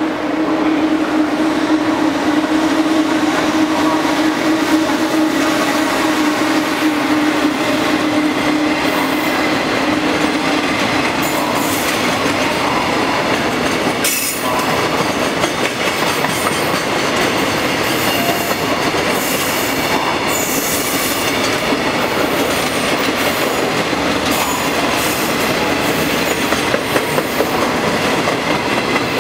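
EF210 electric freight locomotive passing through a station, followed by a long rake of container wagons. A steady hum is heard for roughly the first ten seconds as the locomotive goes by, then a continuous rumble of wagon wheels on rail with clicking over the rail joints and some wheel squeal.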